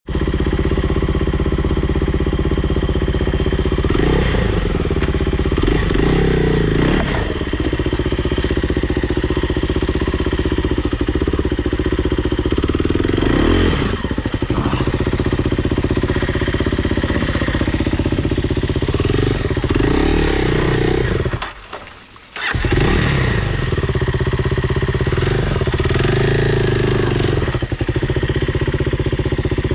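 Dirt bike engine running under riding load, the engine note rising and falling with the throttle. The sound drops out abruptly for about a second about two-thirds through, then picks up again.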